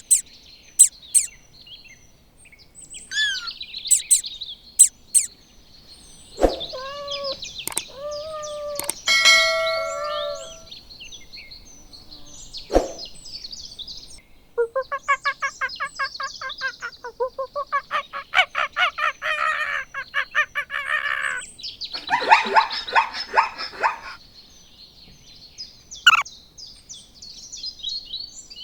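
Farmyard fowl calling over a steady background of chirping birds: several short pitched calls, then a long rapid stuttering call lasting about seven seconds and a shorter pulsed one after it, with a few sharp high chirps scattered through.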